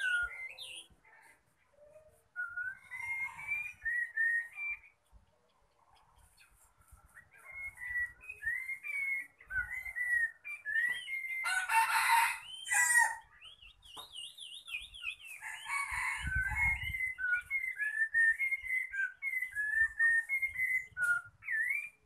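Caged decoy bird calling over and over in short, wavering, chirpy notes, with a pause of a couple of seconds early on. About twelve seconds in comes a louder, harsher call, followed by a quick warbling trill.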